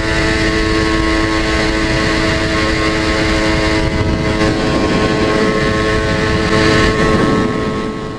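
Yamaha YSR80's two-stroke single-cylinder engine running steadily on a newly fitted VM20 carburetor. It gets slightly louder near the end, then fades out.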